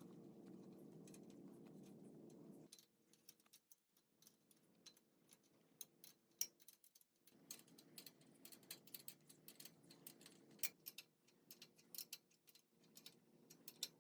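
Near silence: faint, irregular small clicks and ticks over a low steady hum. The hum drops out for a few seconds about a third of the way in, and the clicks grow more frequent after it returns.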